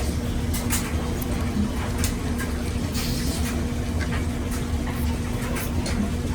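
A steady low hum with a faint constant tone, under scattered short wet clicks and rustles of an English Pointer bitch licking and chewing at her newborn puppy's umbilical cord.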